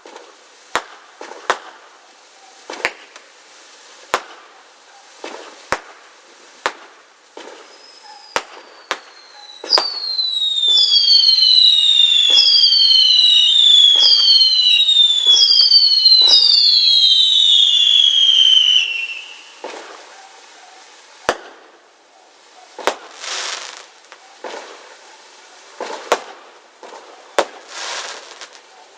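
Fireworks going off: a run of sharp bangs, then from about ten seconds in a string of overlapping whistling fireworks, each whistle falling in pitch, for about nine seconds. More bangs and a couple of longer hissing bursts follow near the end.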